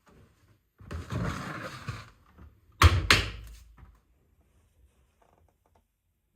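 Household handling sounds: a sliding, rustling sound for about a second, then two sharp knocks in quick succession about three seconds in, the loudest thing heard.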